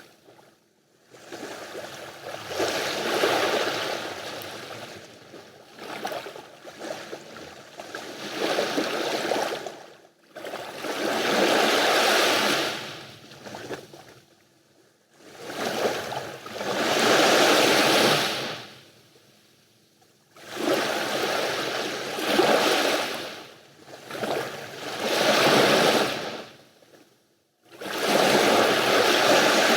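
Mediterranean sea waves breaking and washing up the beach. The wash swells and fades in repeated surges every few seconds, with brief quiet gaps between them.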